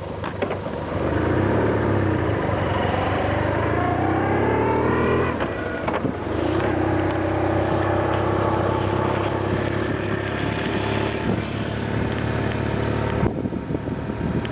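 Motorcycle engine under way, its pitch rising for about four seconds as it accelerates, dropping sharply at a gear change about five seconds in, then running steady at cruising speed.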